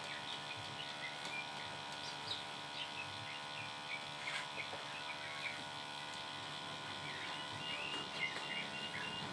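Small songbird chirping in short, scattered calls, with a quick even trill near the end, over a steady background hum.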